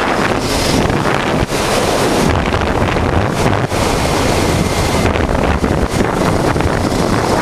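Heavy wind buffeting on the microphone of a moving motorcycle, with the 1988 Honda Transalp's V-twin engine running steadily underneath. There are two brief dips in the wind noise, about one and a half and three and a half seconds in.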